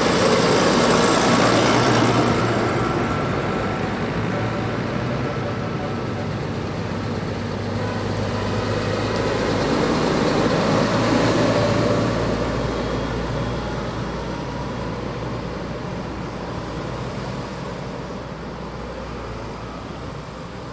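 Tractors driving past with their diesel engines running. Two swells pass, one about a second in and another around ten to twelve seconds, and the sound fades away toward the end.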